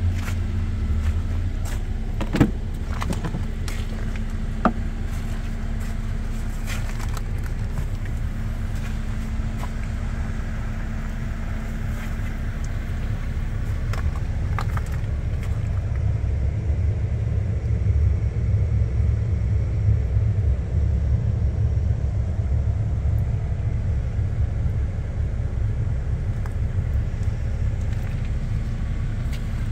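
A Jeep Wrangler idling with a steady low rumble. Two sharp clicks come about two and four and a half seconds in, as the rear swing gate is unlatched and opened.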